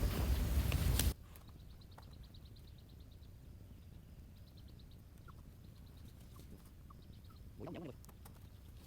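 About a second of loud, rough noise that cuts off suddenly, then a quiet outdoor background with faint, rapid high trills and scattered chirps of small birds. A short, low call is heard near the end.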